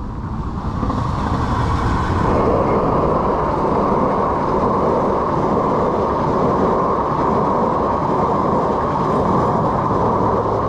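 A passenger train hauled by a diesel locomotive passes close by, its wheels running on the rails. It grows louder over the first second or so, then holds steady as the coaches roll past.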